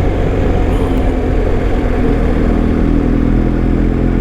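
BMW R1250's boxer-twin engine running under way, with wind and road noise; the engine note climbs a little about halfway through.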